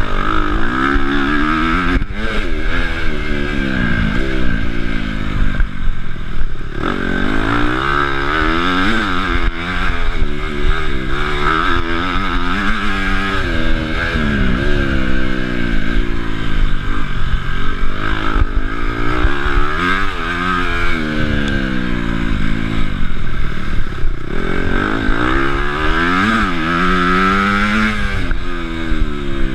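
Honda CRF250 four-stroke single-cylinder motocross bike engine under hard riding, revving up and dropping back again and again as the throttle is opened and closed.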